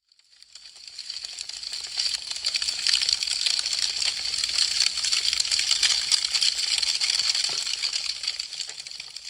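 Wood fire crackling: a dense stream of small pops and snaps that swells up from silence over the first couple of seconds and fades away near the end.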